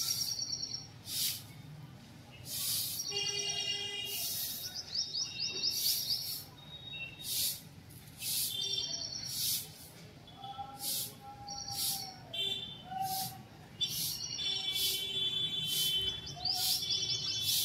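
Several birds chirping and calling: many short, high chirps repeated throughout, mixed with trilled pitched notes and a few lower calls around the middle.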